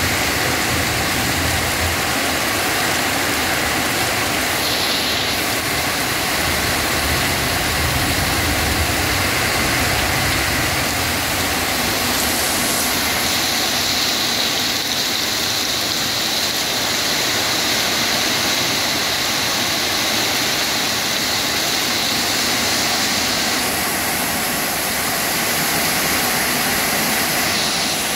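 Heavy tropical downpour: a steady, loud hiss of rain falling on trees and bare ground.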